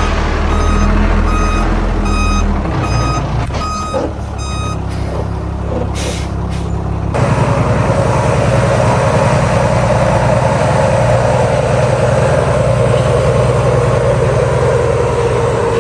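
Heavy diesel truck reversing, its reversing alarm beeping about one and a half times a second over the engine. The beeping stops about five seconds in, a short hiss of air follows, and then the diesel engine revs up and holds a high, loud run for the rest.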